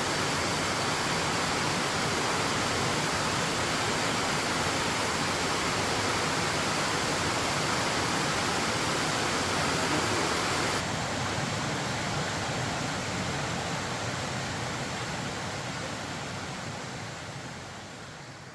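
Steady rushing water noise, even and unbroken. About eleven seconds in it changes abruptly to a duller sound, then fades out.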